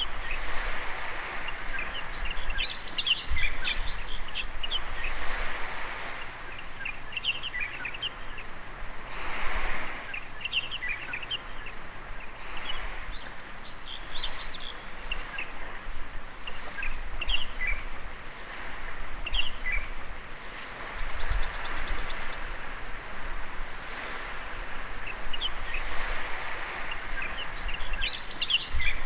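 Small waves washing on a beach, the surf swelling and easing every few seconds, with birds chirping and calling throughout. A quick run of high notes comes about two-thirds of the way through.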